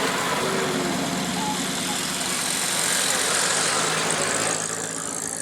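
Engine of a vintage military vehicle running at low speed, with a steady hiss over it that fades about four and a half seconds in.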